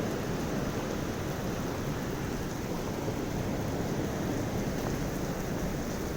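Heavy rain pouring down, a steady even rush with no breaks.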